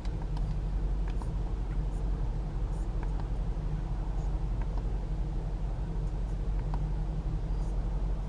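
Range Rover Sport SVR's 5.0-litre supercharged V8 idling steadily, heard from inside the cabin, with a few light clicks now and then.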